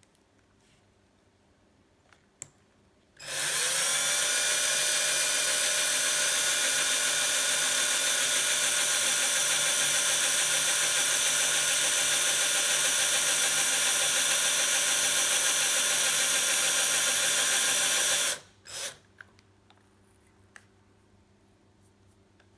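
Small handheld electric drill spinning up about three seconds in and running at a steady pitch for about fifteen seconds while drilling a weight-saving hole in a vintage quick-release skewer, then stopping abruptly; a few light clicks follow.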